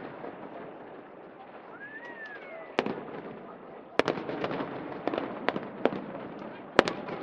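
Aerial fireworks going off: sharp bangs at irregular intervals, starting about three seconds in, the loudest near the end, over a steady background din.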